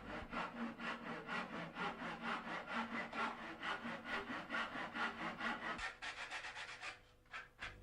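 Hand saw cutting a mitre through wooden moulding held in a mitre block, in quick, even back-and-forth strokes at about four a second. The strokes stop about six seconds in, with a few lighter strokes after as the cut finishes.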